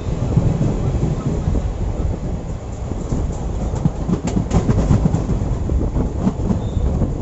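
Indian Railways passenger coach running on the track: a steady low rumble of wheels on rails, with a short run of sharp clicks about four to five seconds in.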